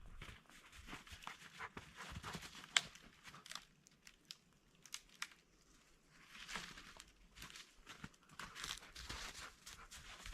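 Irregular crinkling and crunching handling noises, coming and going in clusters, with a few sharp clicks.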